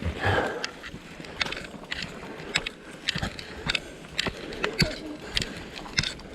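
Bicycles rattling and clicking as they move along a rough forest trail, with many short, irregular clicks and knocks.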